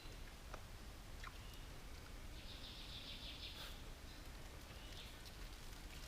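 Faint forest ambience with a steady low rumble. Near the middle a high buzzing animal call lasts about a second and a half, and a few faint clicks sound.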